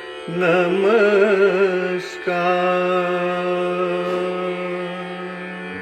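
Devotional prayer song: a solo voice sings the closing word "namaskar" in two short wavering phrases with vibrato, then holds one long note until near the end.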